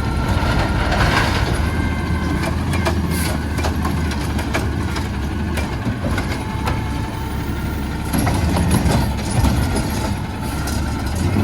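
Garbage truck engine running steadily, with scattered short knocks and clanks over it.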